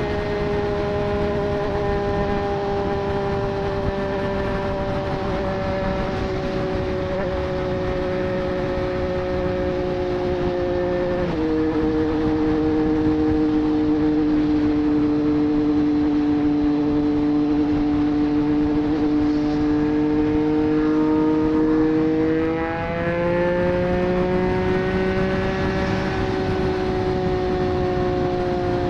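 Triumph Street Triple 765 RS inline-triple engine through a Racefit Growler full exhaust, heard while riding at speed. The engine note eases slowly, drops sharply on an upshift about a third of the way in, climbs gradually, then jumps up in pitch after a brief dip in loudness on a downshift about two-thirds in.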